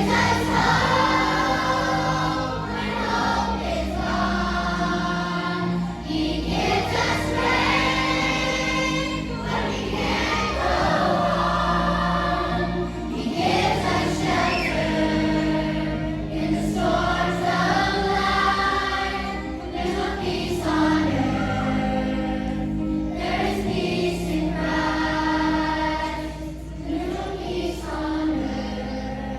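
A choir of young voices singing a song phrase by phrase over a sustained instrumental accompaniment.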